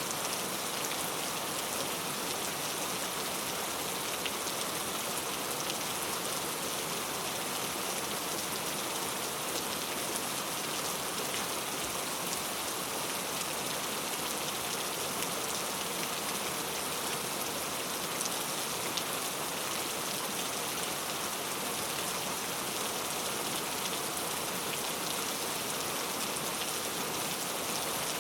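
Heavy rain falling steadily: an even, unbroken hiss with faint scattered ticks of individual drops.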